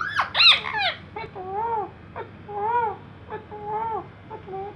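Pet parrot making a string of short, whiny calls that rise and fall in pitch, one after another, loudest in the first second.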